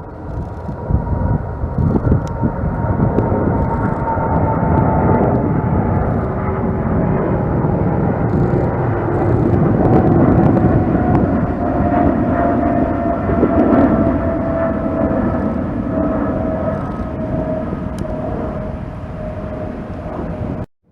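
Jet airliner passing, its engines running with a rumble and a whine that slowly falls in pitch as it goes by. The sound cuts off suddenly near the end.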